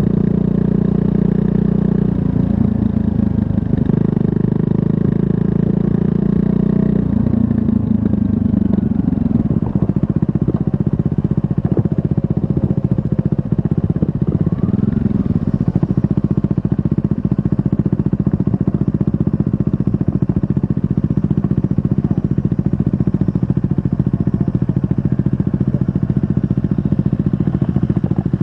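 2024 Triumph Scrambler 400 X's 398 cc single-cylinder engine running. It holds a steady note for the first several seconds, then the pitch falls about seven seconds in and settles into a low, even putting.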